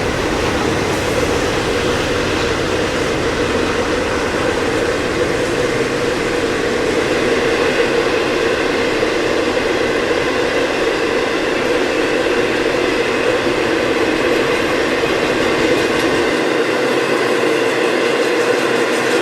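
Canadian National taconite ore train rolling past, a steady, loud run of steel wheels on rail under the ore cars with a faint clickety-clack. The deepest rumble drops away near the end.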